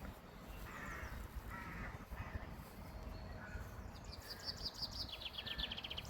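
A crow cawing a few times, then about four seconds in a small songbird's quick trill of rapid high notes falling in pitch, over a low rumble of traffic.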